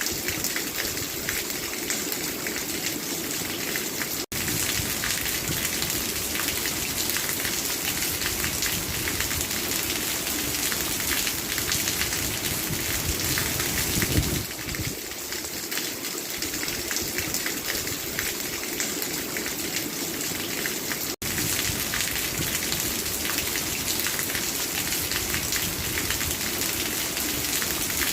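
Steady rainfall hissing on a surface, even and unbroken. The sound cuts out for an instant twice, about 4 seconds in and about 21 seconds in. There is a brief louder swell about 14 seconds in.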